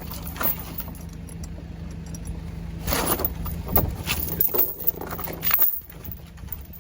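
A heavy machine's engine running steadily while a log chain rattles and clanks, with several sharp knocks. The engine hum drops away about five and a half seconds in.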